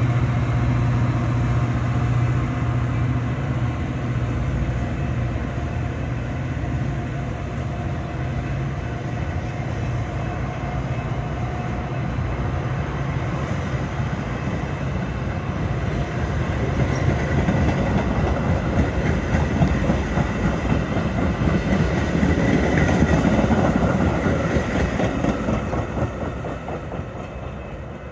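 Metra diesel commuter train going by. A steady low engine hum comes first, then the wheels click over the rail joints, loudest in the second half, before the sound fades away near the end.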